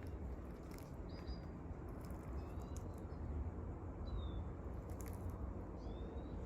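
Small birds chirping faintly, a handful of short high notes sliding in pitch, over a steady low rumble and a few light clicks.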